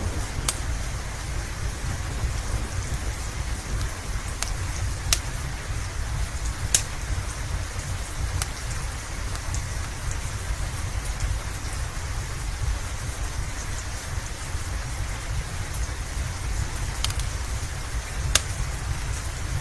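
Steady rain mixed with a crackling wood fire. A constant hiss and low rumble run underneath, with sharp, irregular pops from the fire every few seconds.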